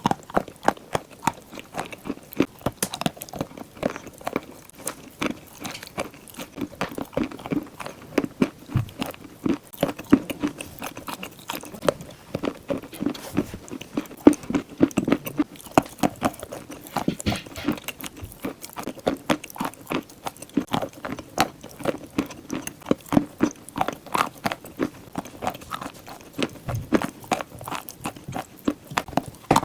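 A person biting and chewing chalk, a rapid run of sharp, crisp crunches.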